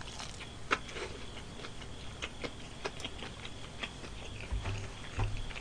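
Chewing fried chicken that has cooled and gone slightly hard: irregular quiet crisp crunches and clicks, a few a second, with a couple of soft low thuds near the end.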